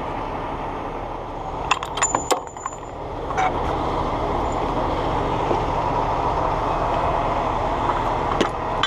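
A heavy truck's engine running steadily, with sharp metallic clinks of rigging gear being handled: a cluster about two seconds in, another a little later, and more near the end.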